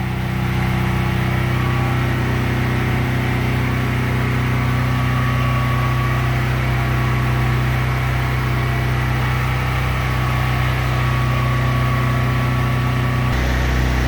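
Duromax 13000EH generator engine running steadily on propane with a constant hum. Near the end the low hum changes suddenly and deepens as the 4-ton central air-conditioner compressor cuts in and loads the generator.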